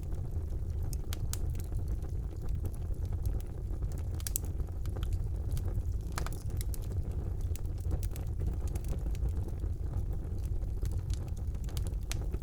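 Fire burning in a fireplace: a steady low rumble of flames with scattered crackles and pops, a couple of louder pops a few seconds in.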